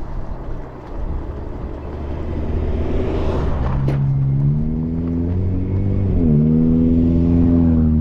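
Motor vehicle sounds during a bike ride: a vehicle passes with a rising and falling whoosh about three seconds in, then a motor hum sets in and holds steady, dipping briefly in pitch about six seconds in.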